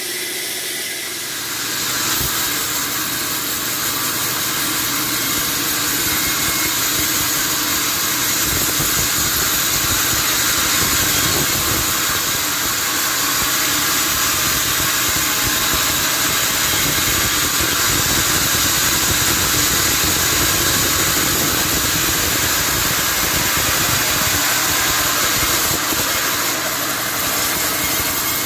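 Sawmill machinery running, a steady mechanical noise that steps up in level about two seconds in and then holds.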